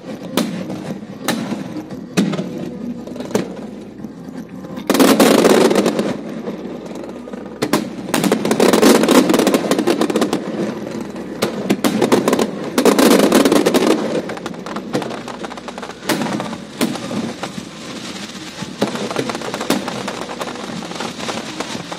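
Aerial fireworks display bursting overhead: a steady run of sharp bangs, with three louder, denser volleys of rapid-fire bangs about five, nine and thirteen seconds in.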